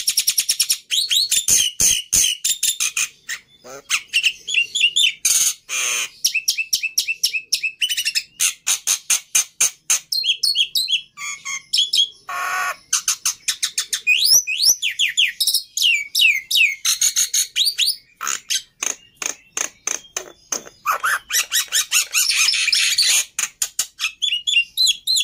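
Black-winged myna (jalak putih) singing a long, varied song: fast clicking chatter mixed with short rising and falling whistled notes, and one harsh squawk about twelve seconds in.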